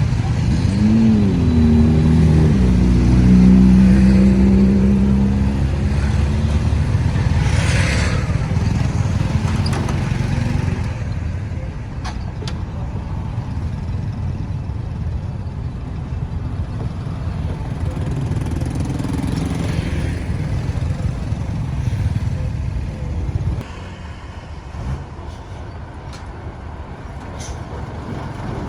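Busy road traffic: an engine revs up about a second in and holds a steady drone for several seconds, then fades into a steady rumble of road noise that drops a little near the end.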